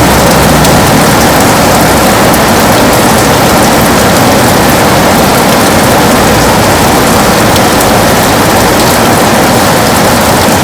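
Heavy rain pouring steadily on a window: a dense, even hiss with a low rumble underneath.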